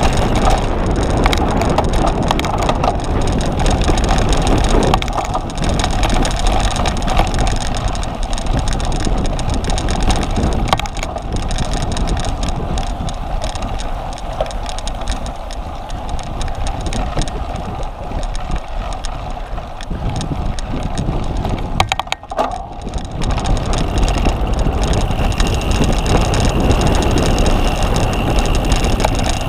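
A cyclocross bicycle ridden over rough ground: a continuous rushing, rumbling noise with rattling and a few sharp clicks, easing briefly a little after twenty seconds.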